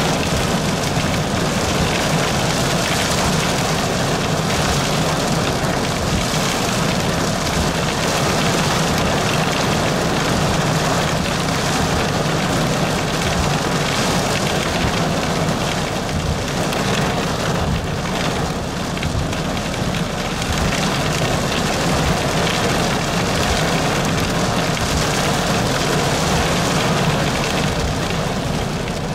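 Heavy rain pelting a car's windshield and roof, heard from inside the car: a loud, steady, dense hiss with a low, uneven rumble underneath.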